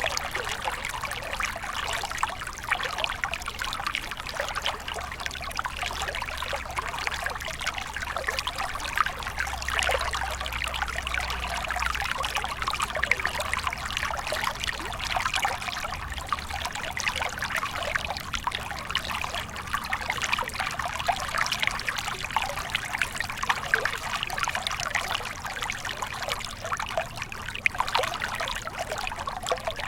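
Small stream of water flowing and trickling steadily, with a dense patter of small splashes and gurgles.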